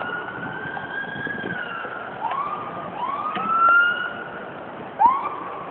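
Emergency vehicle sirens: a long rising-and-falling wail, then short rising whoops about two, three and five seconds in, the last one the loudest.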